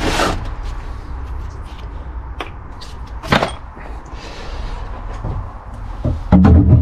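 A few separate knocks and clunks, the sharpest about three seconds in, over a low steady hum; a loud low-pitched sound with a steady tone comes in near the end.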